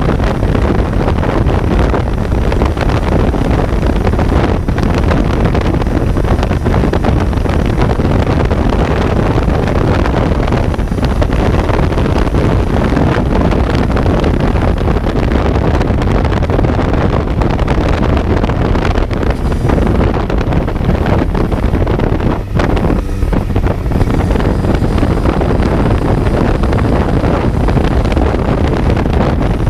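Kawasaki Z900 motorcycle's inline-four engine running under way, heavily masked by strong wind rush on the on-board microphone.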